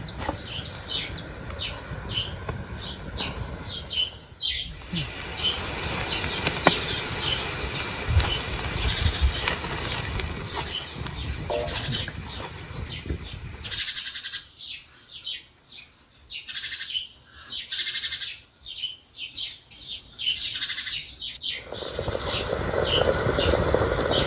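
Small birds chirping in short, repeated high calls over a steady background hiss, and the lower part of the hiss drops away for several seconds past the middle.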